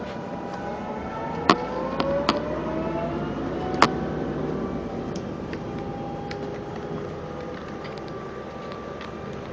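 Heuliez GX 427 hybrid bus heard from inside while driving: a layered whine of several tones, some rising slowly, over the running noise of the bus. Three sharp knocks or clicks come in the first four seconds.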